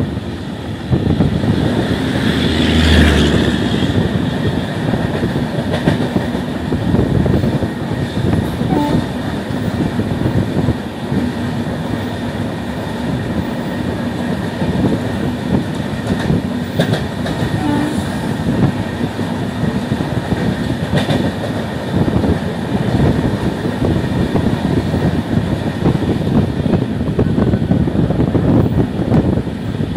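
Train running at speed heard from inside a coach: a steady rumble with clattering wheels on the rails and a few sharp knocks. Another passenger train of red coaches rushes past on the adjacent track, with a louder surge about three seconds in.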